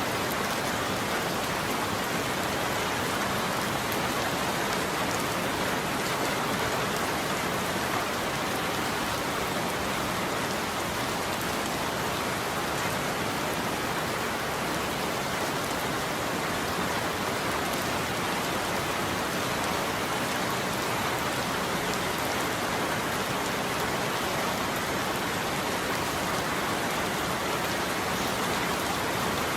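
Steady heavy rain falling on a roof, an even, unbroken patter with no thunder in it.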